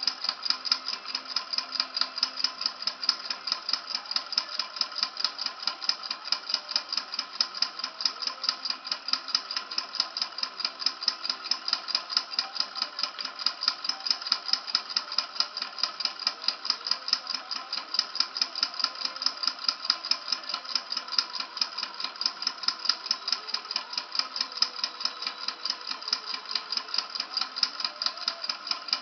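Model Stirling engine running steadily, its moving parts giving off an even, rapid mechanical clicking several times a second.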